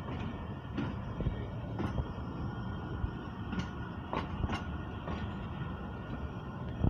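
Awam Express passenger coaches rolling past on the track, their wheels clicking and knocking irregularly over rail joints above a steady rumble.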